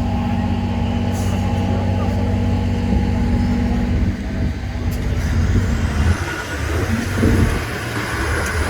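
Off-road trial truck's diesel engine running steadily, then turning rough and uneven from about halfway in as it works harder, with a faint rising whine near the end.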